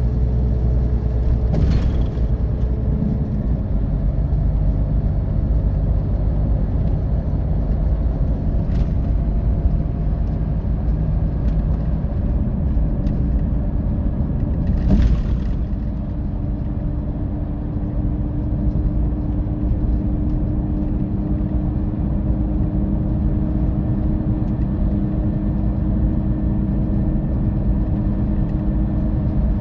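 Scania K450EB coach under way: a steady low rumble of the engine with road and tyre noise, and a couple of short rushes of noise, one about two seconds in and one about halfway through.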